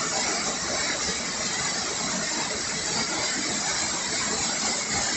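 Waterfall on a small river: a steady, even rush of falling and splashing water.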